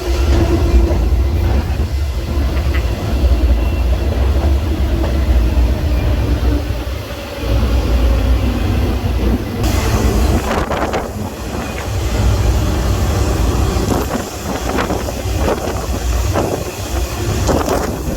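Freight train running, heard from aboard a car: a steady low rumble of wheels on rail, with more clanking and rattling from about ten seconds in.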